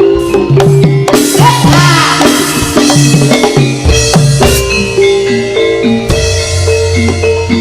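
Music for a Javanese turonggo horse dance: drums beat a steady rhythm under a melody on tuned, marimba-like metal percussion.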